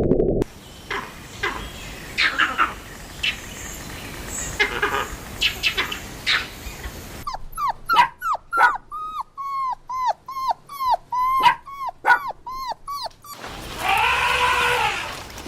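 Puppy whimpering: a quick run of short, high whines falling in pitch, about two a second, through the middle, after scattered yips, with longer wavering cries near the end.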